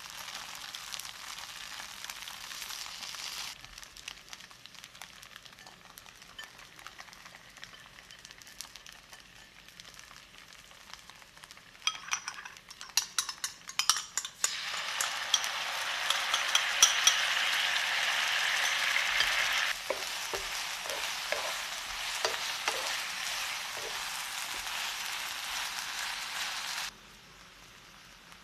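Cubes of thick fried tofu (atsuage) sizzling in a frying pan, with a run of clicks and knocks a little before halfway. The sizzle then jumps much louder as miso sauce is poured over the tofu and garlic chives, with a few knocks of stirring, and it cuts off sharply near the end.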